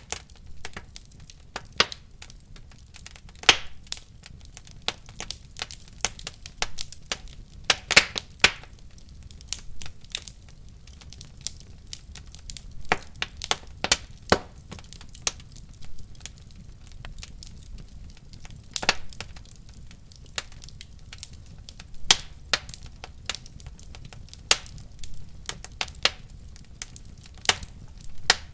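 Wood fire in a fireplace burning, crackling and popping at irregular intervals over a low steady rumble of flames, with a few sharper pops standing out.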